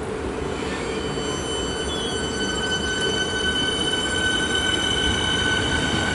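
Siemens electric multiple-unit train pulling out of a station: a steady high whine from the traction motors, several tones together, sets in about a second in over the rumble of the wheels, growing slowly louder as it gathers speed.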